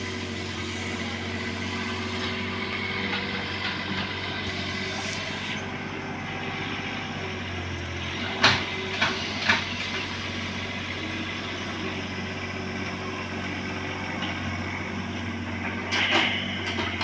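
Bobcat 322 mini excavator's diesel engine running steadily while it works, with three sharp knocks about halfway through and a few more clanks near the end.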